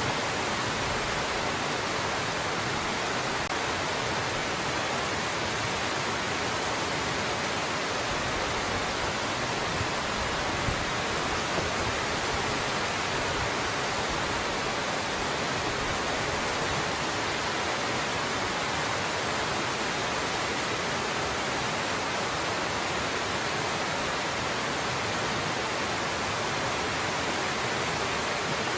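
Waterfall pouring steadily: an even, unbroken rush of water.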